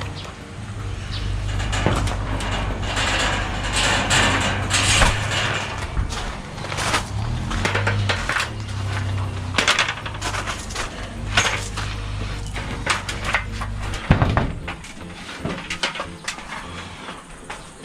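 Metallic clinks, knocks and scrapes from work on corrugated steel sheet siding, over a steady low hum that stops about fourteen seconds in.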